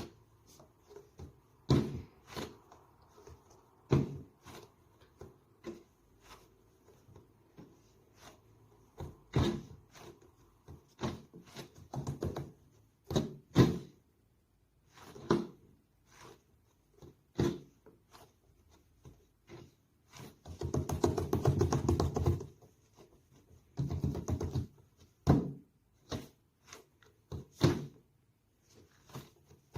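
Hands squeezing and pressing soft squishy toys: irregular soft taps, sticky clicks and small knocks, with a denser crackling run of about two seconds around two-thirds of the way through.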